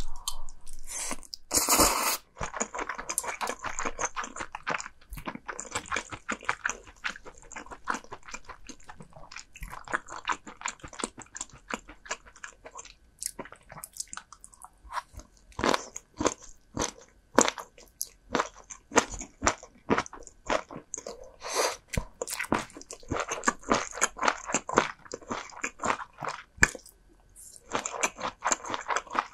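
Close-miked eating sounds: a person chewing and crunching mouthfuls of food, with many sharp wet clicks and crackles. There is a loud crunchy bite about two seconds in, and brief lulls between mouthfuls.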